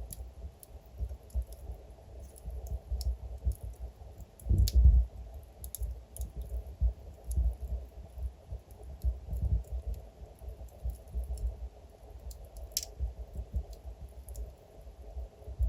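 Fire burning, with irregular sharp crackles and pops over a low rumble; the loudest pops come a little under five seconds in and near the end.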